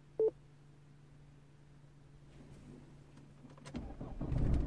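A short beep about a quarter second in, then a faint steady hum. Near the end the Mercedes CLC220 CDI's four-cylinder diesel cranks and fires on a start attempt. The car has an intermittent no-start and cutting-out fault, and this start dies straight away.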